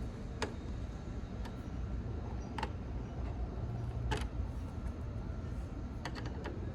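Sharp, irregular clicks and ticks of the license plate and its frame being screwed tight onto the truck, over a steady low rumble.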